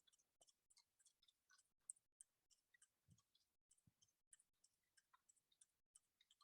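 Near silence, with faint, irregularly spaced clicks.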